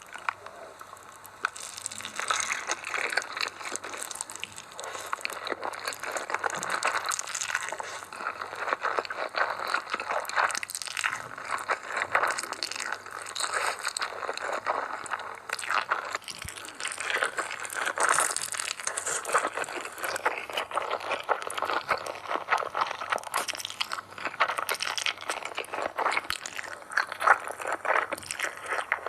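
A person eating noodles: a dense, continuous run of wet chewing and mouth clicks that starts about a second and a half in.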